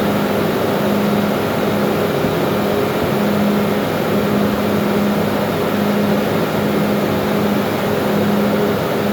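Loud, steady engine-room machinery noise, with a low hum that swells and fades about once a second.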